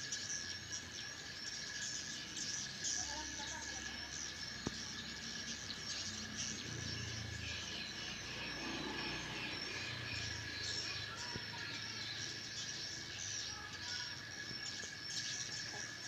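Swiftlets twittering in many quick, high chirps over a steady high insect drone. A low rumble swells and fades in the middle.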